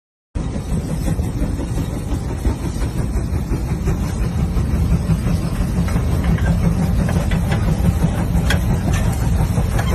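Old tractor's engine running steadily, a low rumble with faint scattered ticks over it.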